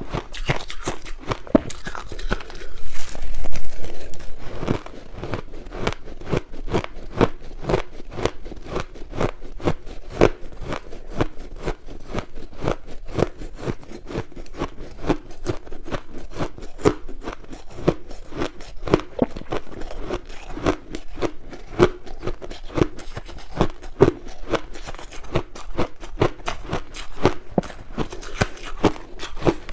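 White crushed ice being bitten and chewed close to the microphone: a steady run of crisp crunches, about three or four a second, loudest about three seconds in.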